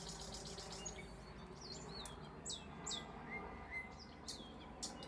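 Small songbirds chirping and twittering, with fast trills near the start and near the end and a few quick downward-sweeping whistles in between, over a steady low background rumble.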